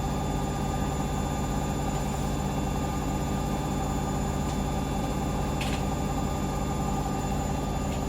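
Hoover Link washing machine in a steady high-speed spin at 1400 rpm, a constant whirring drum and motor with a steady whine.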